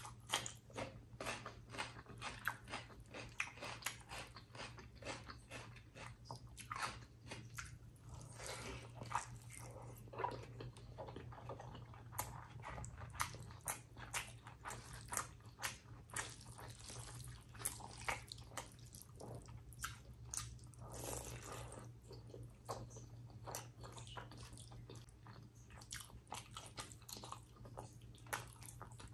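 Close-up eating sounds of a person chewing a mouthful of chicken liver curry and rice eaten by hand: many short clicks and smacks, several a second, over a steady low hum.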